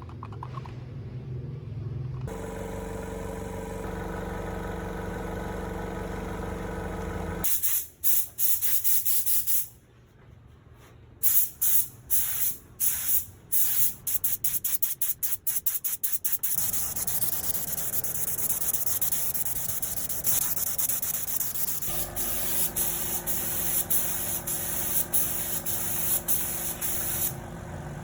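Compressed air hissing from a spray or blow gun: a run of short bursts, then a steady spray. A motor hums steadily before the bursts, and again near the end under the spray.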